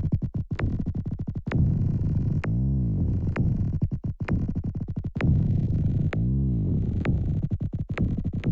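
Kick drum sample run through a glitch effects chain (Transporter in bounce mode, transient processor, multiband delay), playing as a repeating electronic loop. Runs of rapid stuttering clicks alternate with stretched low thumps whose pitch bends down and back up.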